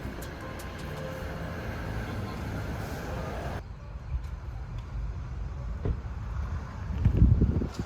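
Steady low rumble of a vehicle in motion, with hiss over it that drops away abruptly about three and a half seconds in; the rumble swells louder near the end.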